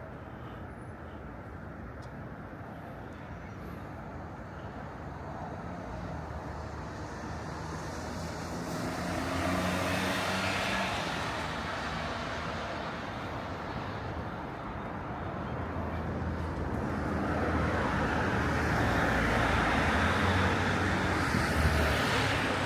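City street traffic: a steady hum of road noise, with one vehicle passing about ten seconds in and another, louder one passing near the end.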